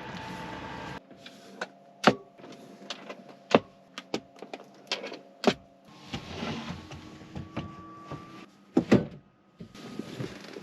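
A series of sharp clicks and knocks, five or six loud ones spread over several seconds, with rustling in between: things being handled and set down.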